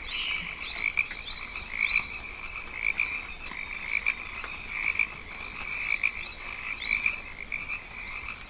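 Rainforest frogs calling in a chorus, one call repeating about once a second, with quick rising chirps above it.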